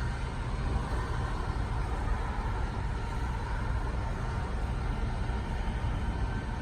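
GMC C7500 bucket truck's engine running steadily, driving the hydraulics as the boom is swung around on its turntable.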